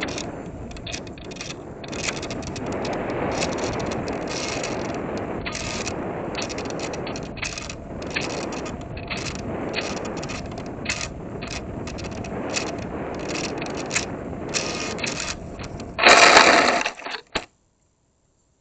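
Rattling, scraping noise with many short clicks and knocks, picked up by the tiny camera mounted on the small electric RC plane's airframe. A loud burst comes near the end, then the sound cuts off dead as the recording stops.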